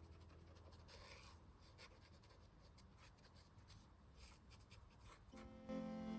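Faint scratching strokes of an acrylic marker tip on paper as colour is laid down. Soft background music comes in near the end.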